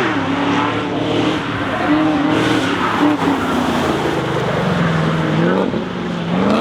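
Sports car engine running and revving, its pitch holding steady, then dropping and climbing again near the end as the revs rise.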